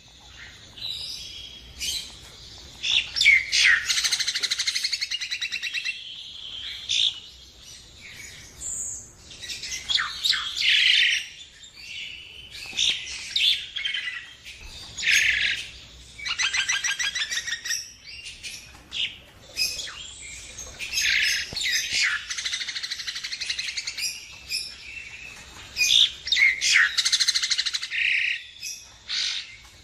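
A Jalak Nias bird singing a long, varied song of chatters, short whistles and fast rattling trills, phrase after phrase with brief pauses.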